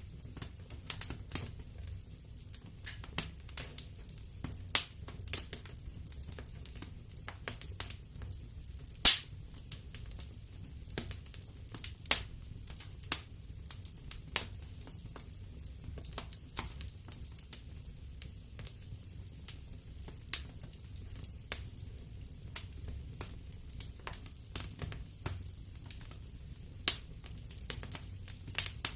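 Wood fire burning in a fireplace: irregular sharp crackles and pops over a steady low rumble of the flames, with one louder pop about nine seconds in.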